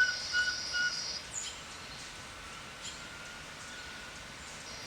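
Forest bird calling: three short, evenly spaced whistled notes in the first second. Over them runs a steady high ringing tone that stops about a second in, and a fainter steady tone carries on under the forest ambience.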